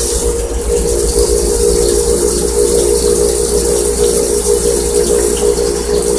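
Haas CNC lathe running a cut with coolant flowing: a steady machine hum under a hiss of spraying coolant.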